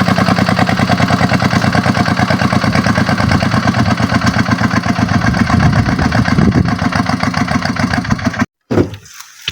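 Kubota tractor's diesel engine running steadily, its rapid even firing beat clearly heard; the sound cuts off suddenly near the end.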